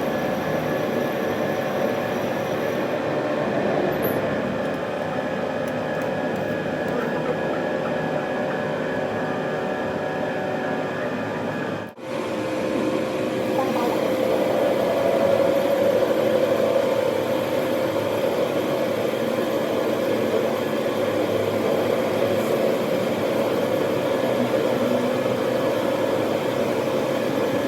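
Workshop machinery running with a steady mechanical drone and several held tones. It breaks off for an instant about twelve seconds in, then carries on.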